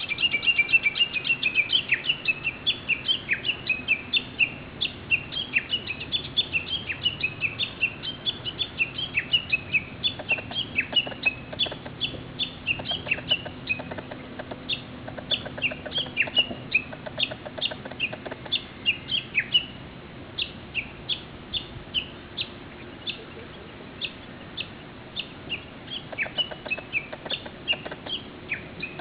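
Japanese bush warbler (uguisu) calling: a long, unbroken run of short, sharp notes, several a second, some dropping steeply in pitch.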